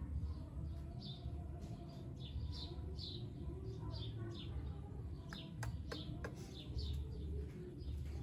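A small bird chirping over and over, short falling chirps about two a second, over a low steady hum. A few sharp clicks sound about five to six seconds in.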